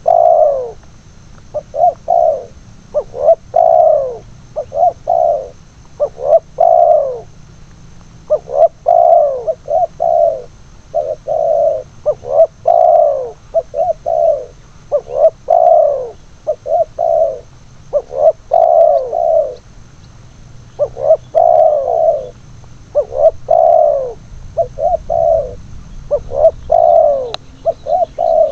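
Spotted dove cooing over and over, in short phrases of two or three falling notes, a new phrase every second or two.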